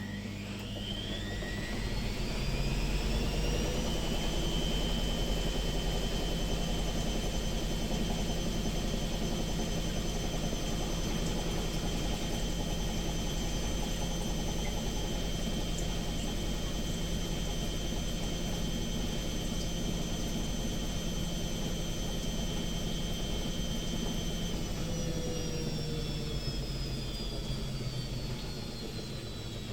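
Washing machine motor and drum running a spin: a whine rises over the first few seconds as it winds up to speed, holds steady, then falls as it winds down in the last five seconds.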